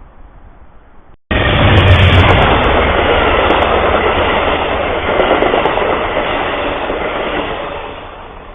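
A train passing close by with loud, steady rumbling and rattling of wheels on the rails. It starts abruptly about a second in and fades near the end.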